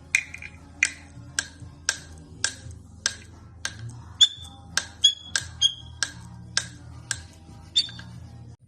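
A series of sharp clicks or taps, about two a second, some with a short ringing tone, coming less evenly after about four seconds, over a faint low hum.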